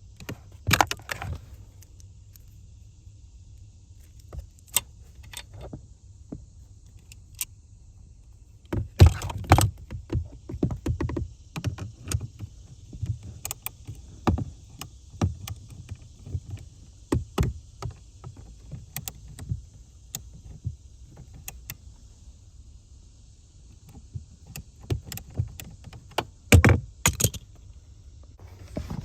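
Irregular clicks, knocks and rattles of hand tools and parts being handled while an HVAC blend door actuator is worked loose under a car's dashboard, over a low rumble. The loudest clusters come about nine seconds in and again near the end.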